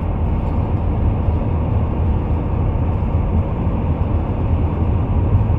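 Steady road and engine noise inside the cab of a Class C motorhome driving along, a constant low rumble with no change in pitch.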